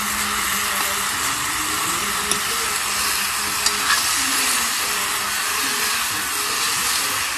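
Chopped spiny gourd and potatoes sizzling steadily in a kadhai over an open wood fire, with a few clicks of a spoon stirring against the pan.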